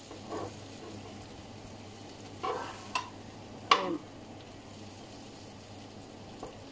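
Whole prawns sizzling in oil in an electric paella pan as metal tongs turn them, with a few sharp clicks and scrapes of the tongs on the pan, the loudest between about two and a half and four seconds in.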